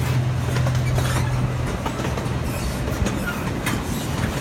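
Miniature zoo train running, heard from a passenger coach: a steady rolling rumble with scattered clicks of the wheels over rail joints, and a low hum that drops away about two seconds in.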